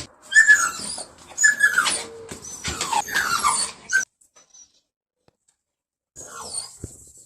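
A dog whining in a run of short, high, falling whines, then a pause of about two seconds, then a few more whines near the end.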